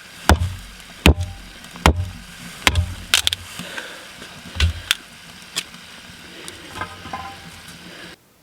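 A series of sharp knocks and clicks, about one a second for the first few seconds and then sparser, over a faint steady hiss. The sound cuts off abruptly near the end.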